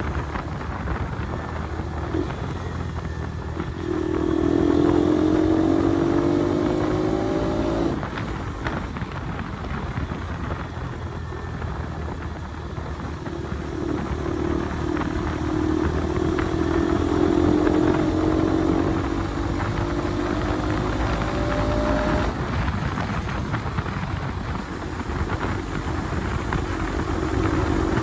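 Bajaj Pulsar NS200's single-cylinder engine through an aftermarket Akrapovic exhaust, pulling up through the revs twice with a slowly rising note. The first pull lasts about four seconds and the second about eight, and each ends with a sudden drop in pitch.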